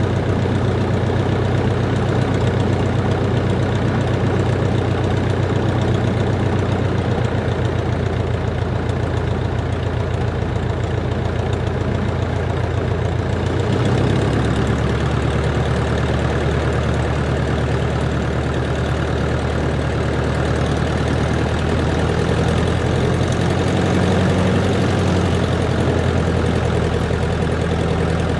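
Cessna 140's light-aircraft piston engine and propeller running at low, idle-taxi power after landing. The engine note shifts slightly about halfway through, then holds steady.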